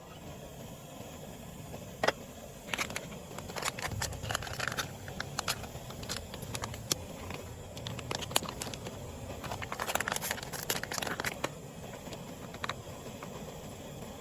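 Steady rain, with a run of irregular sharp snaps, crackles and crinkling handling noise from about two seconds in until near the end.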